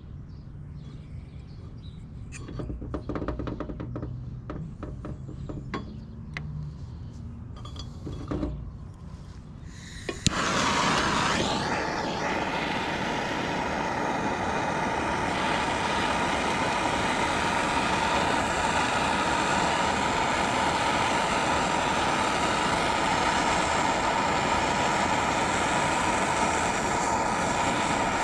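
Soldering torch lit about ten seconds in, then burning steadily with a loud hiss and a steady whistle, heating a copper fitting for sweat soldering. Before it, light clicks and knocks of the fittings being handled.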